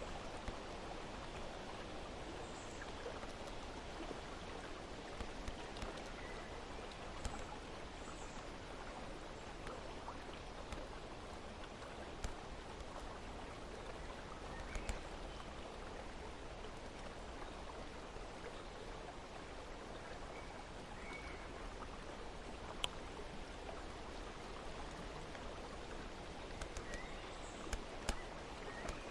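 Steady, even rush of water noise, with a few faint short high chirps and light ticks scattered through it.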